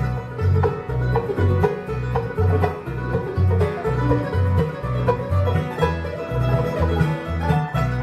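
Bluegrass band playing an instrumental break between verses, banjo to the fore over guitar, with bass notes on the beat about twice a second.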